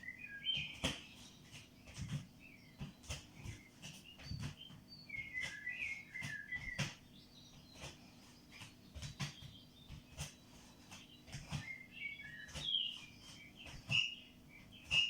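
A small bird chirping and twittering in short clusters, over irregular soft thuds and taps of steps on the floor.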